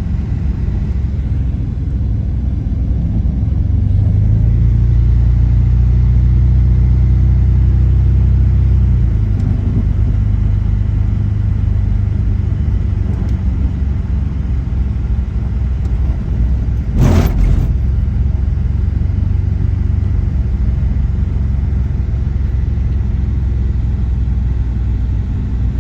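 Four-wheel-drive vehicle's engine and tyres rumbling while it drives slowly down a snowy mountain road. The engine note is louder for a few seconds about 4 s in, and there is a single sharp knock about 17 s in.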